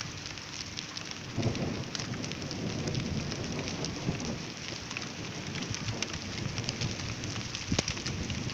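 Rain falling, with many small drop ticks, and a low rumble coming in about a second and a half in.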